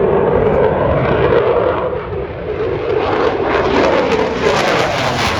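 Fixed-wing display aircraft flying past, with a loud engine noise that carries a wavering tone and grows brighter and harsher through its second half.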